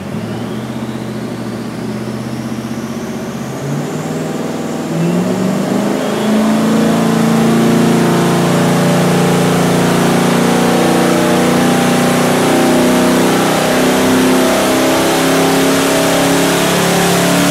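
Twin-turbo 4-litre Ford Capri engine on a chassis dyno pull running an E85 tune: the engine note climbs over the first six seconds, with a high whine rising in pitch over the first few, then holds loud and steady at high revs.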